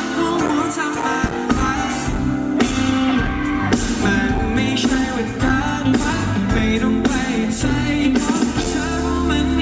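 Live band music: a singer over guitar and drums.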